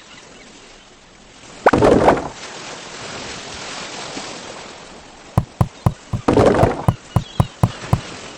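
A loud noisy crash about two seconds in, then a quick run of about a dozen sharp knocks with another noisy burst among them.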